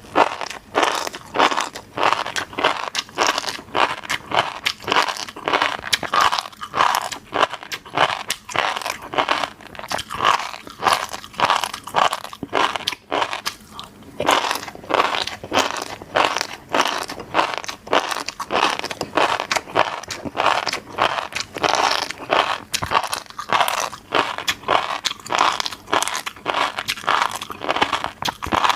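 Close-miked chewing and biting of fish roe, a steady run of short, crisp strokes, several a second.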